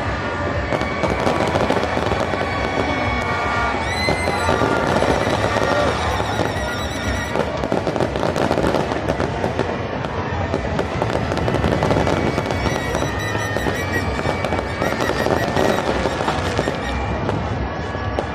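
Fireworks display: dense, continuous crackling and popping bursts overlapping without a break, with music playing underneath.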